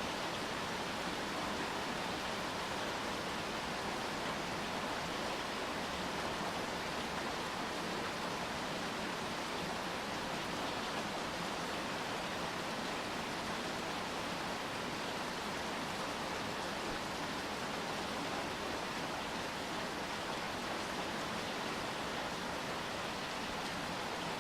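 Steady rain falling, an even hiss with no single drops, drips or other sounds standing out.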